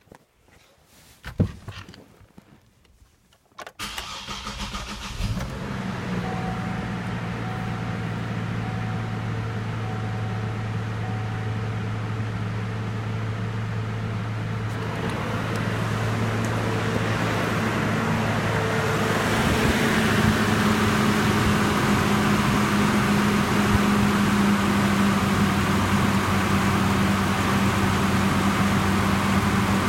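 Chevrolet Trailblazer's 4.2-litre inline-six being run-tested: after a few clicks, the starter cranks briefly about four seconds in and the engine catches and settles into a steady idle. It gets louder about fifteen seconds in and again near twenty seconds, then runs on steadily.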